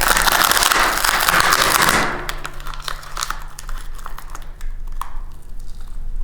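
Dense crinkling and crackling for about two seconds, then scattered small clicks over a faint low hum.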